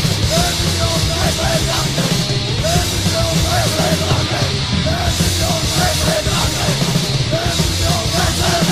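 Swedish hardcore punk recording: loud, dense band music with distorted guitars, bass and drums.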